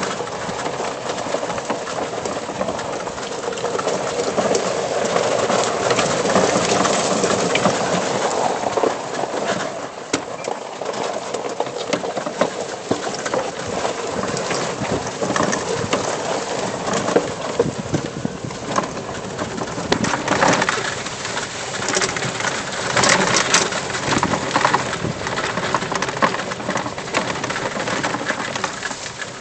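2007 EZGo golf cart driving over a rough dirt trail: the tires make a steady noise, and the cart body and the loose tools and other items in it rattle and knock irregularly.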